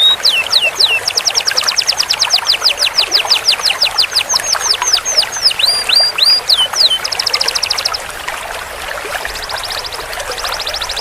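Domestic canary singing a long roll: fast trills of repeated downward-sweeping whistled notes, about ten a second, broken by a few slower sweeping notes. About seven seconds in it switches to a faster, buzzier trill, and the song is quieter over the last few seconds.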